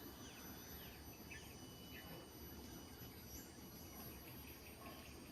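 Near silence: faint background hiss with thin steady high-pitched tones and a few faint short chirps.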